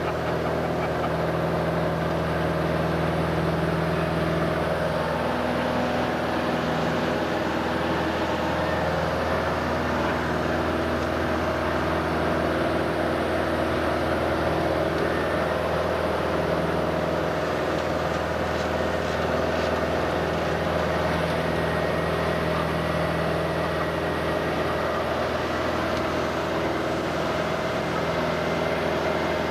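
Cessna 180's six-cylinder engine and propeller running steadily at constant power: an even drone under a loud rushing noise.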